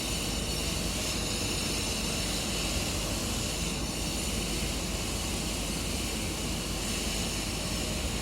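Toei 10-300 series electric train's equipment giving a steady whine of several high tones over a low hum, unchanging throughout.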